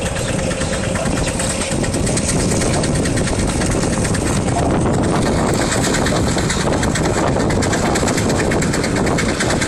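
Antique tractor engine running steadily, its exhaust beat heard as a rapid, even pulse.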